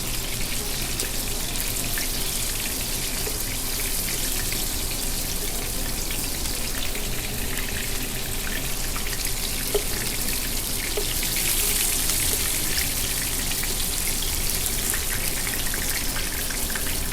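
Chicken koftas sizzling in hot oil in a frying pan: a steady, even crackle, with a few light ticks.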